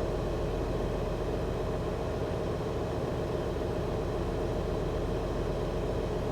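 Steady idling hum of a semi truck's diesel engine, heard from inside the cab.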